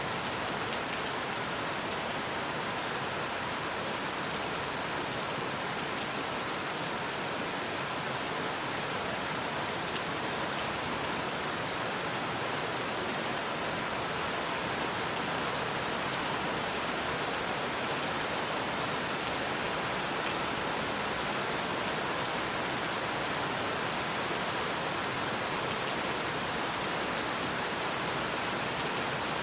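Steady rain: an even hiss of rainfall with the fine patter of individual drops, unchanging throughout.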